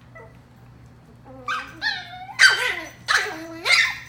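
Chihuahua puppies yipping and barking, about five high yaps in quick succession starting a little over a second in.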